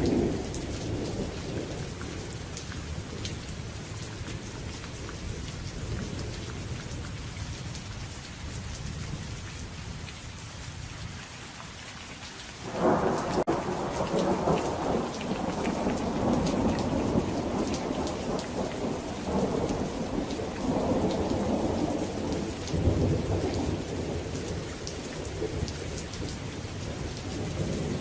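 Steady rain with thunder: a low rumble dies away over the first dozen seconds, then a sudden loud thunderclap a little before halfway rolls on in several swells.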